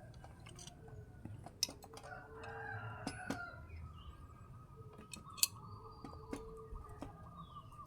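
Chickens calling, with a long drawn-out rooster crow in the second half. Several sharp clicks are heard over it.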